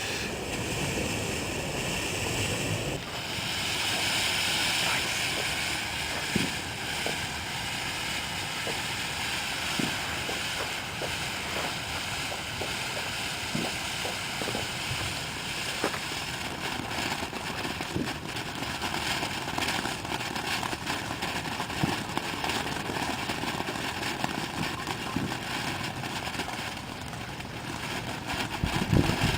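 A ground fountain firework burning with a steady spraying hiss and scattered small crackles. The hiss is strongest a few seconds in.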